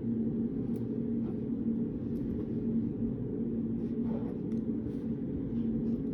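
Steady low hum of a reading room's background noise, with a few faint scattered ticks.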